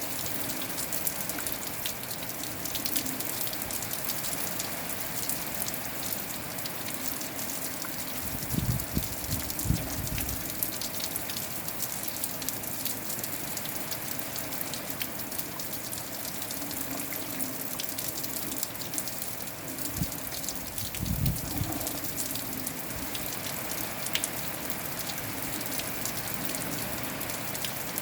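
Steady rain falling, with a dense patter of individual drops. Twice, about a third of the way in and again about three-quarters through, short low bumps of wind gusts buffet the microphone.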